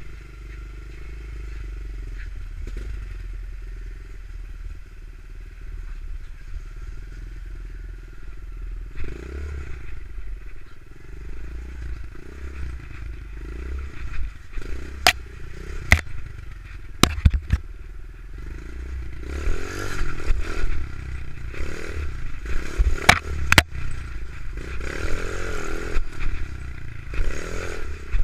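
Pit bike engine running, its sound rising and falling, with a series of sharp knocks and clatter through the second half.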